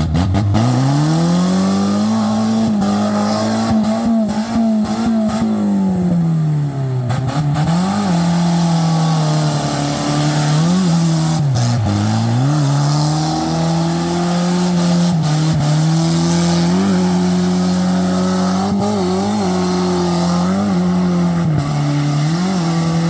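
Suzuki Escudo engine held at high revs while the car does skids, the revs climbing at the start, dipping a couple of times and blipped up in short jabs, with a noisy hiss of spinning tyres underneath.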